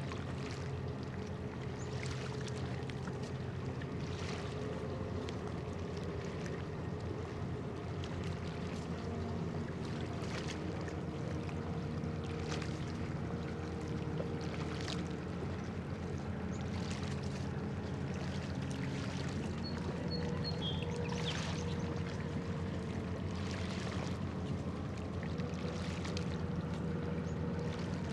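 Steady low drone of a cargo ship's engines across the water, with small waves lapping and splashing softly about every two to three seconds.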